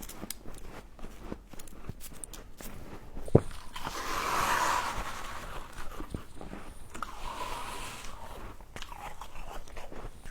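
Close-miked biting and chewing of frost: many short crisp crunches, with one sharp loud snap about a third of the way through and a longer grainy crunching stretch just after it.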